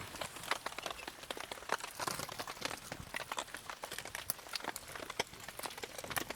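Wood campfire crackling, with dense irregular snaps and pops.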